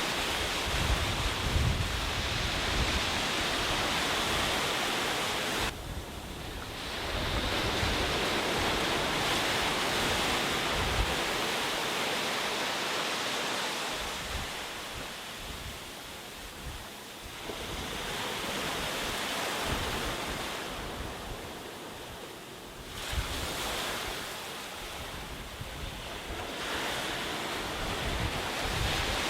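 Sea waves breaking and washing on a beach, the surf swelling and ebbing every several seconds, with wind buffeting the microphone.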